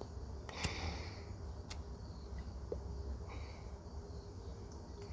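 Faint outdoor background: a low steady rumble with soft chirps recurring every second or two, like insects. A short hiss and a couple of light clicks come in the first two seconds.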